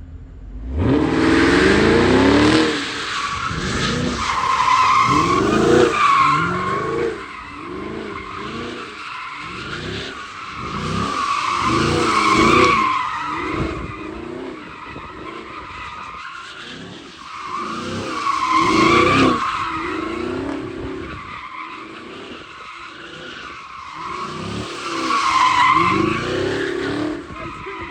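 Car being drifted: the engine revs up and falls off again and again under a tyre squeal. The car swells loudest about every six or seven seconds as it comes round.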